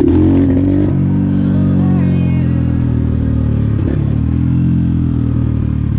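Highper 150 pit bike's single-cylinder four-stroke engine catching right at the start and then running at a steady pitch, with a brief dip and pick-up about four seconds in.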